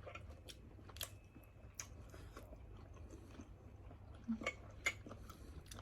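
Faint close-up chewing and eating noises: soft mouth clicks and smacks, irregular and spaced out, over a steady low hum.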